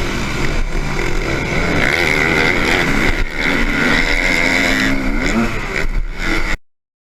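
Motocross bike engines revving, their pitch rising and falling as they accelerate and back off over a noisy, wind-blown background. The sound cuts off suddenly near the end.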